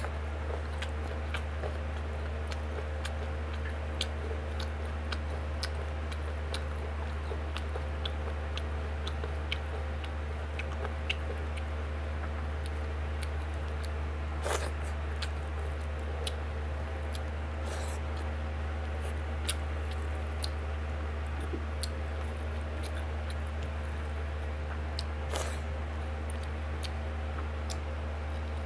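Close-up mouth sounds of a person eating rice and pork by hand: chewing and wet smacks with many small scattered clicks, a few louder. A steady low hum runs underneath.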